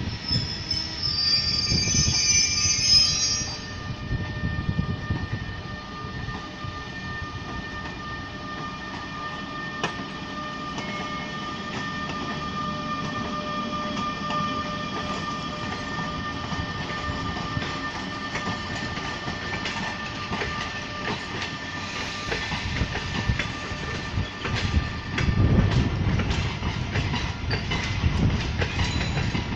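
Double-decker passenger train pulling out of the station, with a brief high-pitched squeal in the first few seconds, then a steady whine from the train as it rolls by, and the wheels clicking and thudding over rail joints, heaviest near the end.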